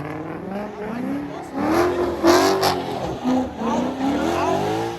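Car engine revving hard at a car meet, its pitch climbing, dropping back and climbing again several times, loudest about two seconds in.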